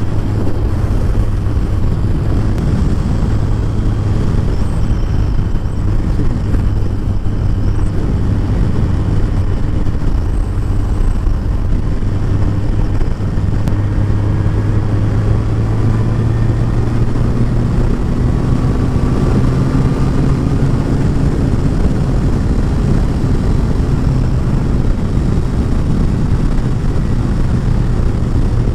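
Kawasaki ZZR1400 inline-four engine running at a steady cruise on the open road, its low note holding even, with a slight rise in pitch partway through.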